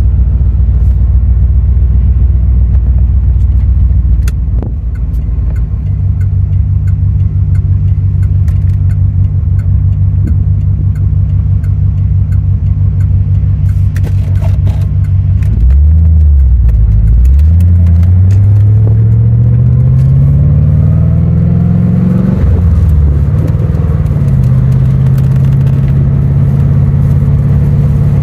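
1990 Corvette's L98 V8 pulling on the road: the engine holds a steady note, drops briefly, then climbs for about six seconds under acceleration, dips at a gear change, and settles into a steady cruise.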